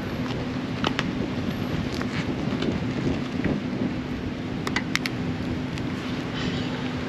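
Motorcycle idling: a steady low rumble with a constant hum, and a few light clicks over it.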